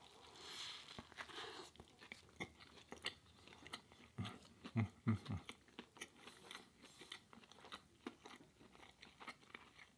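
A close-miked bite into a ciabatta breakfast sandwich, then chewing with faint, scattered wet mouth clicks. The bite is a soft swell of bread noise in the first second or so.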